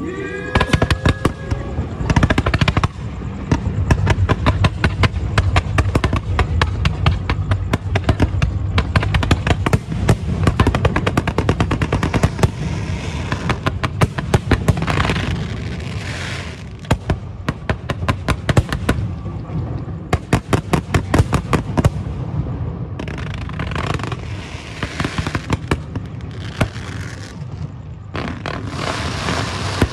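Aerial fireworks going off in a dense, rapid run of cracks and bangs, with a few short lulls.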